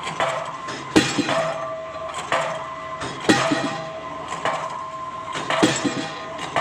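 Pile-driving hammer striking a PHC concrete pile: three heavy blows about two and a half seconds apart, each with a metallic clank and smaller knocks between, over a steady ringing hum.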